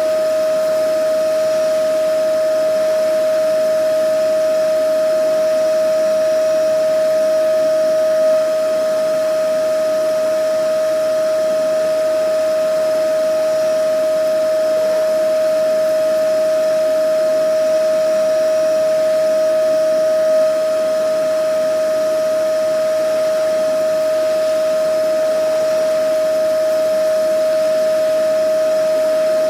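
Vacuum cleaner motor running steadily: a constant whine that holds one pitch, over an even rushing hiss of air.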